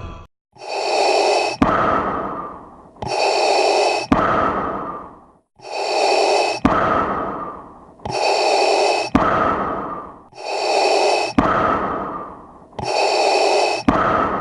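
Darth Vader's respirator breathing sound effect, repeated six times in identical cycles: a hissing breath, a click, then a second breath that fades.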